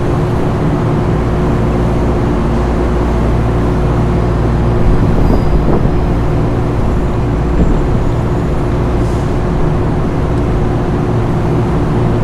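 Steady machinery drone with a constant low hum, without letup.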